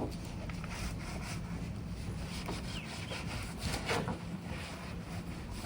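Hand scrubbing inside a car's wheel arch: irregular rubbing and scraping strokes over a steady low hum.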